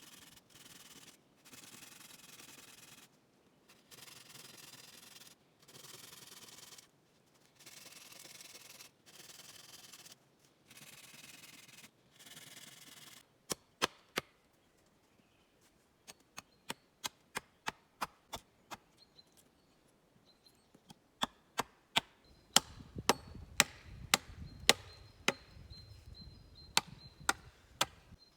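Wood being worked with hand tools: about ten long scraping strokes of a second or so each, then a series of sharp knocks on wood that come quicker and louder in the last several seconds.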